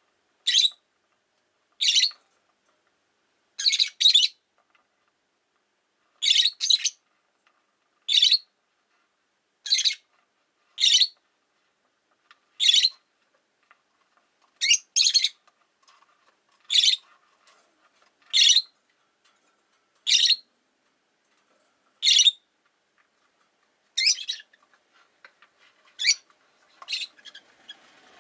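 Rosy-faced lovebird giving short, sharp, high-pitched calls, singly or in quick pairs, about every one to two seconds.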